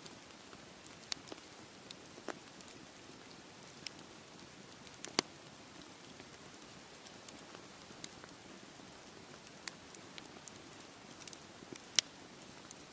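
Campfire crackling, with scattered sharp pops, the loudest about five seconds in and near the end, over a steady wash of sea waves.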